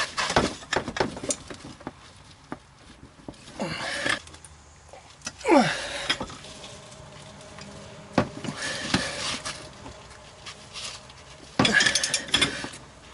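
Metal hand tools clinking and knocking as a socket on a long extension and breaker bar are worked against a very tight bolt that has been heated and quenched with water to free it, with a cluster of louder knocks near the end.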